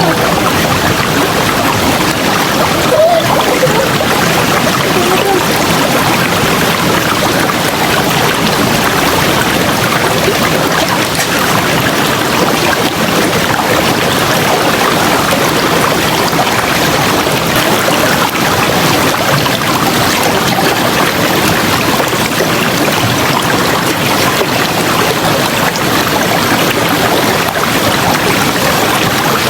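River water flowing steadily, a dense even wash of noise, with a brief faint higher sound about three seconds in.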